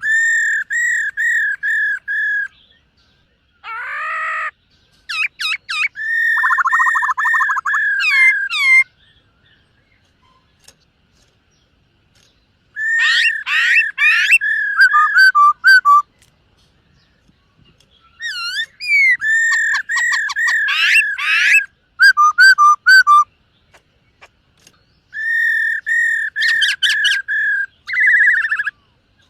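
Black-throated laughingthrush singing loud whistled song in four bouts. Each bout is a run of quick repeated whistled notes, with a few seconds of silence between bouts.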